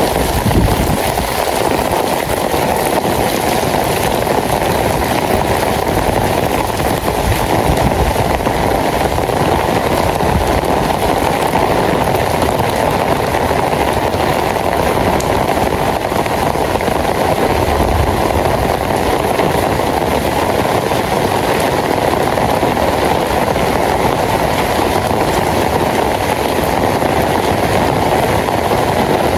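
Steady rain falling, an even, unbroken rushing noise.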